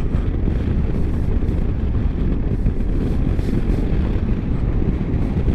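Wind rushing over the microphone of a motorcycle on the move, a steady low rumble with the engine and road noise underneath.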